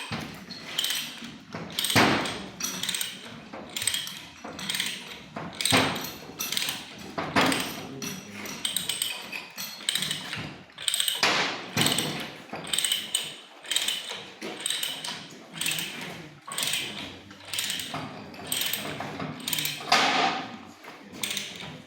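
Hand tools working metal pipe: an uneven run of metallic strokes and clicks, about one or two a second.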